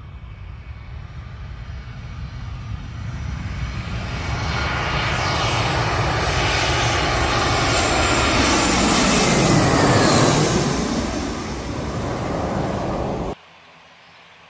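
Airliner passing low overhead: its engine noise builds over several seconds, peaks with a falling pitch as it goes past, then cuts off abruptly near the end.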